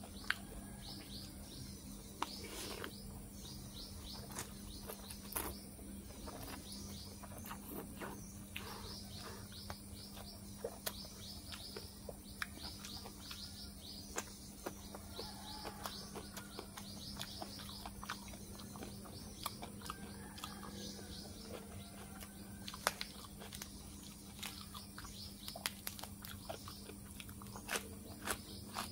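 Close-up eating sounds, with chewing and sharp mouth clicks, over birds chirping in quick repeated notes. A steady low hum runs underneath.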